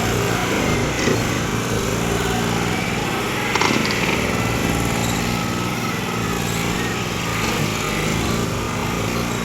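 Tractor diesel engines running steadily at a steady pitch, with a brief sharper sound about three and a half seconds in.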